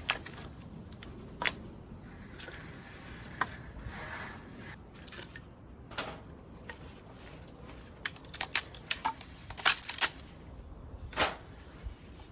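Scattered clicks and knocks of the parts of a folding campfire stand being handled, with a quick run of sharp knocks about eight to ten seconds in.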